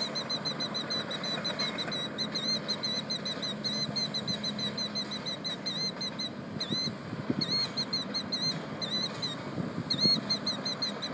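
A nesting bird calling in a rapid, steady series of short, high chirps, typical of a bird agitated at an intruder near its eggs. A low steady engine hum runs underneath in the first half.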